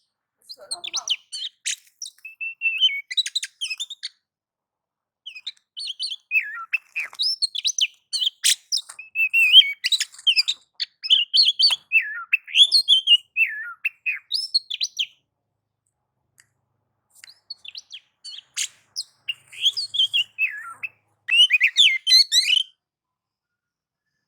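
Oriental magpie-robin singing a fast, varied song of whistles and scratchy chatter in three bouts with silent gaps between them. This is its excited, challenging 'nagan'/'ngobra' song, the kind used as a lure to provoke other magpie-robins into singing.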